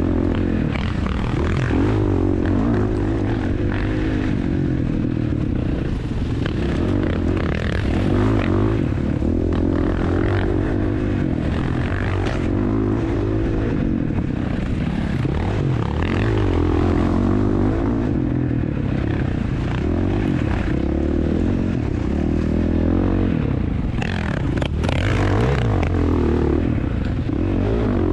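Dirt bike engine running hard under load, its pitch rising and falling again and again as it revs up and shifts.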